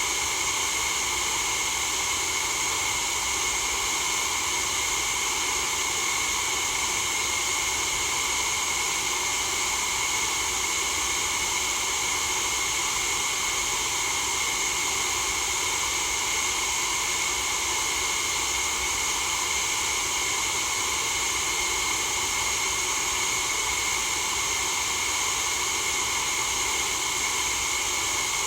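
Steady, unchanging white-noise hiss, strongest in the high treble.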